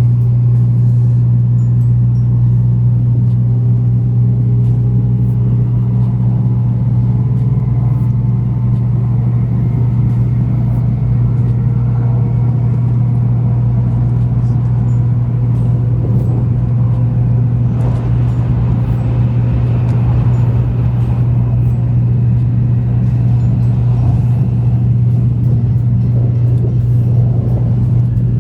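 Sanyo Shinkansen Nozomi heard from inside the cabin while running: a loud, steady low rumble with a faint whine that drifts slowly in pitch.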